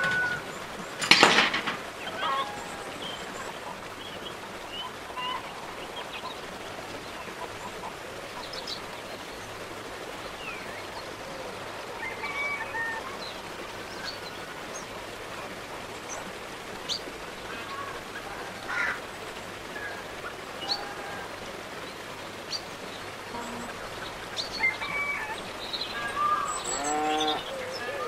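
Birds calling now and then over a steady background hiss, with a sharp click about a second in and a louder call with several stacked tones near the end.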